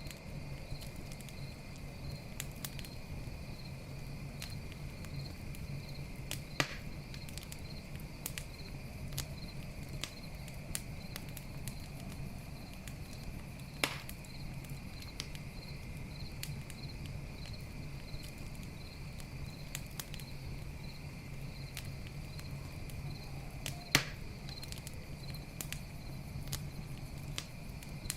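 Wood fire crackling with a scatter of small ticks and three sharper pops, the last one the loudest. Crickets chirp steadily behind it.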